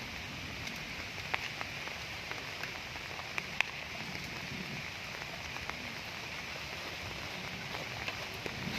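Steady rain falling, with scattered sharp drop ticks; the two loudest come about a second and a half and three and a half seconds in.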